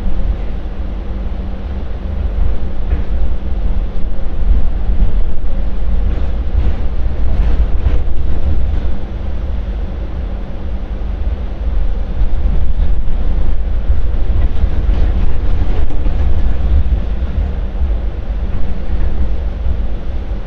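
Hong Kong MTR Light Rail Phase 4 two-car light rail train running: a steady low rumble with wind buffeting the microphone. It grows louder about four seconds in, eases off for a few seconds around the middle, then rises again.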